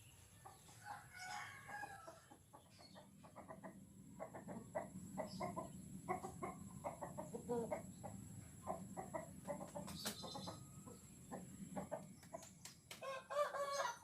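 Birds calling in quick runs of short clucking notes, with a longer, louder call near the end.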